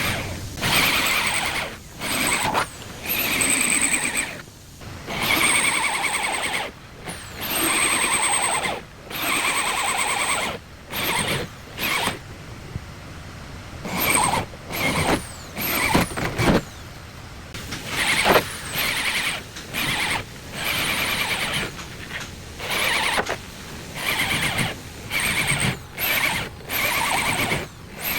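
A power tool working car-body sheet metal in repeated short bursts, each running for a second or two with a squealing whine, then stopping briefly.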